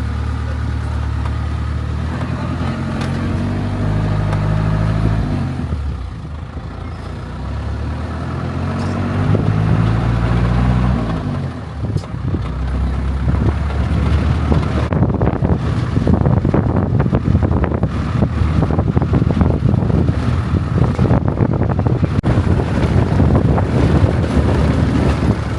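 Safari game-drive vehicle driving, its engine note rising and falling as it changes speed and gear. From about halfway the sound turns to a dense, rough rumble with many short knocks.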